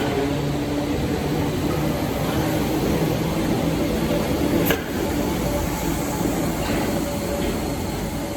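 Merseyrail Class 507/508 electric train moving at an underground platform: a steady rumble with a faint motor hum, and one sharp click about halfway through.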